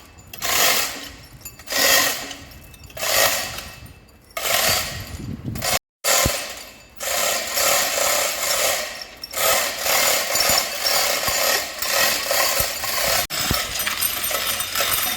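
Mechanic's hand tools working on an engine: repeated ratcheting strokes about once a second, then after a brief cut a denser, steadier run of tool and workshop noise.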